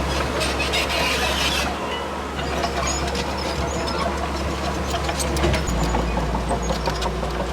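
Heavy diesel earthmoving machinery running steadily, with metallic clanks and rattles over the engine and a hiss in the first couple of seconds. The engine note shifts lower about five and a half seconds in.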